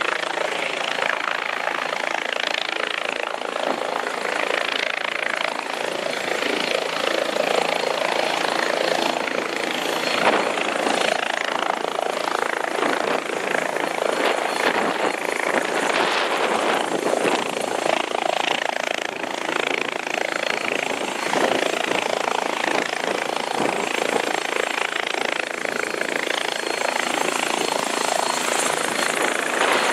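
Helicopter noise heard from inside the cabin: the turbine and rotor make a steady, dense roar with no break.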